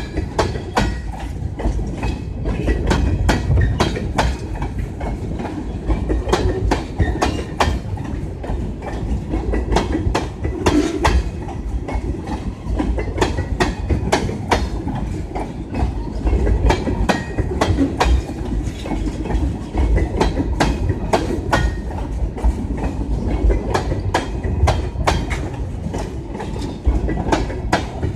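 Freight train tank cars rolling past close by: a steady low rumble of wheels on rail, with frequent sharp clicks and clacks as the wheels cross rail joints.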